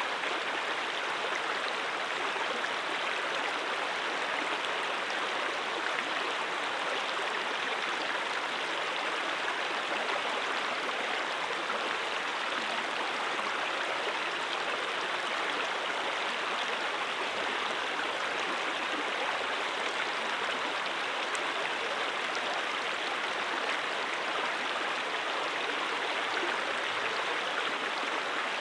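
Stream water flowing steadily: a continuous, even rush of running water.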